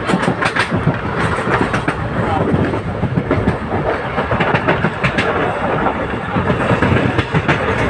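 Passenger train in motion: a steady rumble of the coach running on the track, with repeated clacks of the wheels over rail joints.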